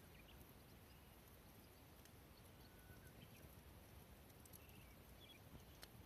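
Near silence: faint outdoor ambience with a few faint short high chirps and a couple of light ticks.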